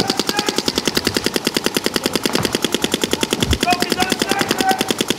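Paintball markers firing in a rapid, steady stream, about a dozen shots a second without a break, with faint distant shouts underneath.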